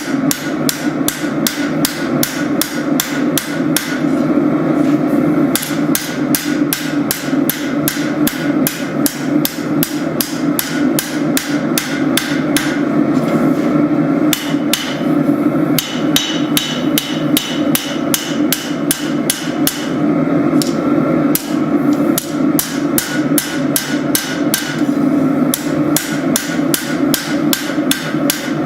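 Hammer blows forging hot spring steel on an anvil, struck in a quick even rhythm of about three to four a second with a few short pauses. A steady drone runs underneath.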